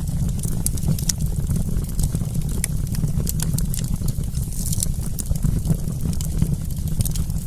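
Wood campfire crackling: many sharp, irregular pops and snaps over a steady low rumble of the burning fire.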